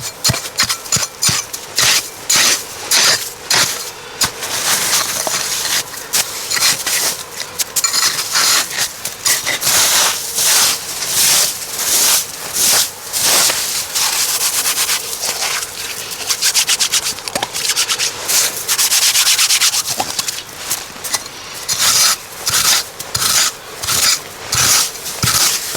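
Repeated scraping strokes, about one to two a second, with a faster, more continuous stretch of scraping a little past the middle.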